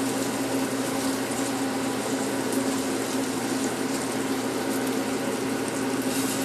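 Flour-dredged liver frying in bacon fat and butter, a steady sizzle, with a steady low hum underneath.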